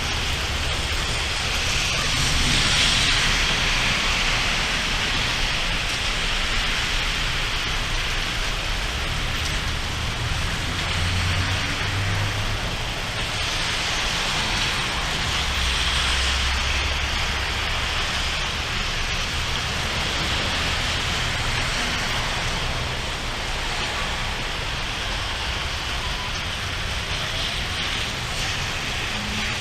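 Heavy rain falling steadily in a thunderstorm, swelling a little a few seconds in and again around the middle.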